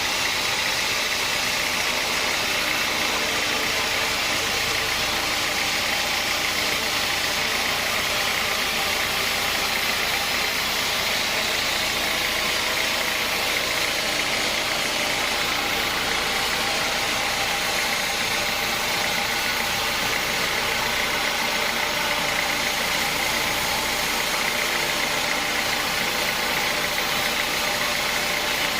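Sawmill machinery running steadily, a constant mechanical noise with no change in level.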